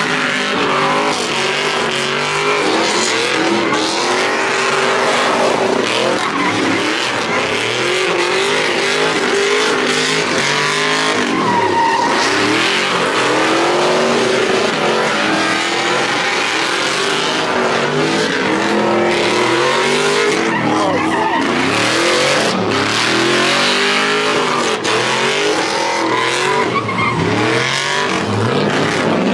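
Truck engines revving up and down again and again under hard throttle, with tires squealing and skidding, as in burnouts and donuts.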